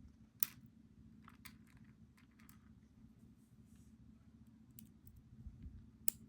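Sparse, faint clicks and ticks of tweezers handling tiny metal lock side pins as they are pulled from the lock and set or dropped down. There is a sharp click about half a second in, a few light ticks after it, and two sharp clicks near the end.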